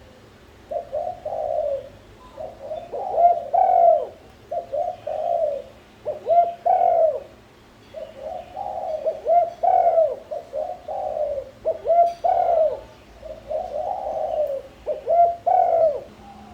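Spotted doves cooing: a run of low coo phrases, one after another with short gaps.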